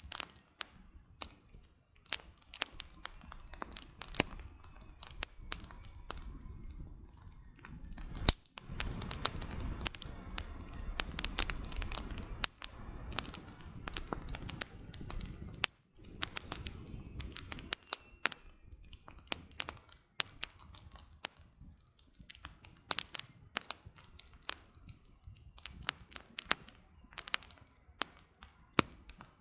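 Wood campfire crackling, with frequent sharp pops and snaps of burning firewood. From about eight seconds in to about seventeen seconds, a low rushing noise sits under the crackles.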